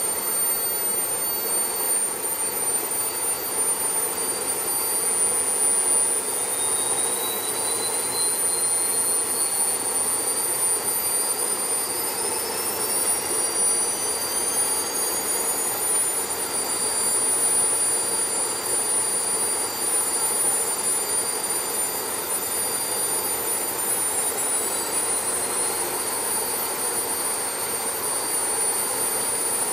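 Twin engines running on test: a steady loud drone with several high whining tones, one of which climbs slowly in pitch from about a quarter of the way in until near the end, as one engine speeds up.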